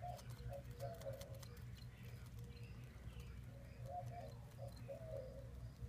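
A bird cooing: two short phrases of low notes, one at the start and another about four seconds in, over a steady low rumble.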